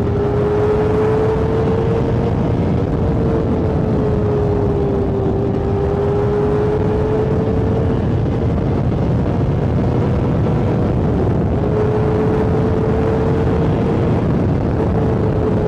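Motorcycle engine running steadily under way, its pitch drifting slowly up and down with a brief dip about eleven seconds in, over a constant rushing noise.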